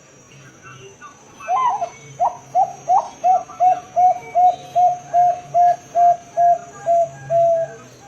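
Zebra dove (perkutut) singing: a fast run of about fifteen short coos, roughly three a second, starting about a second and a half in. The first few coos are higher and rising, the rest are even and steady.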